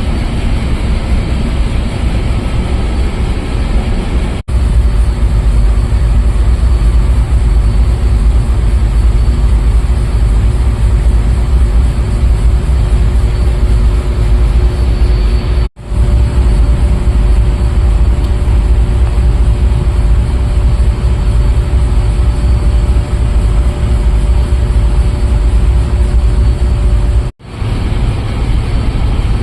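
Loud, steady drone of shipboard machinery, heavy in the low end with a couple of steady humming tones over it. It drops out briefly three times.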